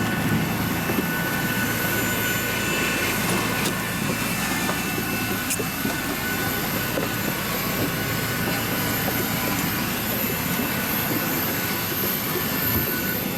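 Steady hum and hiss of a jet airliner on the ground, its ventilation and engine noise running evenly, with a few faint clicks.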